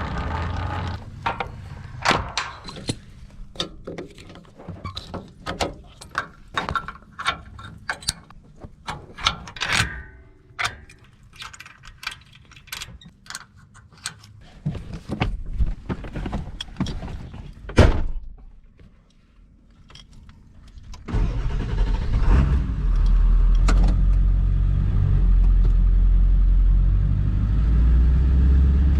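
A long run of sharp clicks and metal clanks as a boat trailer is hitched to a truck, then, about twenty seconds in, the truck's engine running with a steady low rumble.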